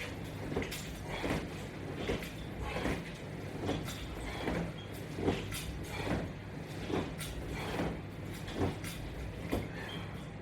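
A person doing sit-ups against resistance-band straps, one short movement sound with each repetition, just over one a second, over a steady low hum.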